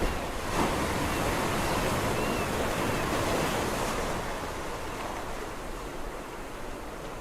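Sea waves washing onto the shore: a wave surges in over the first few seconds, then recedes into a softer, steady wash.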